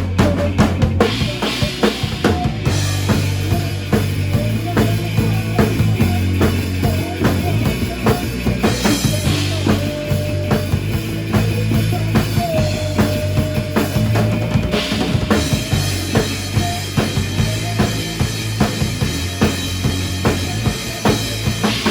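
Rock or pop band music: a drum kit keeping a steady beat over bass, with a long held note near the middle.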